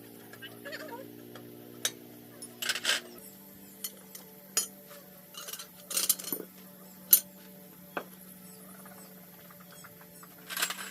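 Scattered metallic clinks and knocks, like tools or metal parts being handled, about ten over the stretch, over a faint steady hum that drops to a single lower tone about three seconds in.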